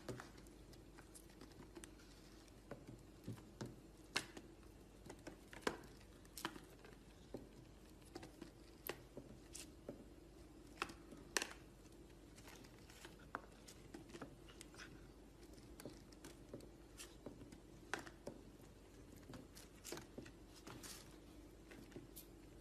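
Near silence with faint, irregular small clicks and rustles every second or so, over a faint steady hum.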